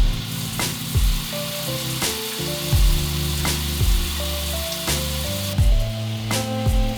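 Food sizzling in a hot frying pan, a steady hiss, over background music with held notes and a deep beat.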